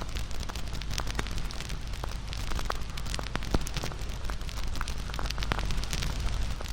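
Wood fire crackling: many short, sharp pops and snaps, irregular and several a second, over a steady rushing noise of the burning fire.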